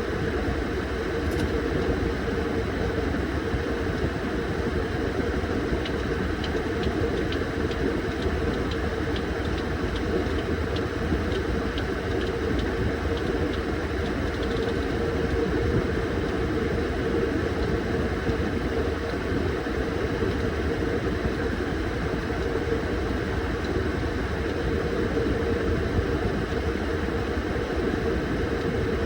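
Washing machine running, a steady motor hum with no breaks, with faint light ticking for a while partway through.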